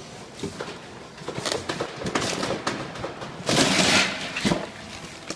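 Clicks, knocks and scraping of loose metal parts being handled, with a louder rasping scrape about three and a half seconds in.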